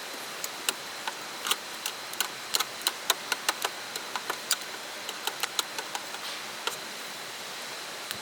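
Irregular sharp clicks and ticks, about twenty of them at uneven spacing, over the steady rush of a mountain stream.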